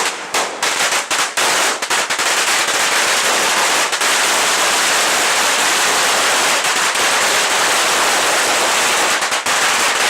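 A string of Chinese firecrackers going off: a few separate sharp bangs, then within a second or two a dense, continuous rattle of cracks.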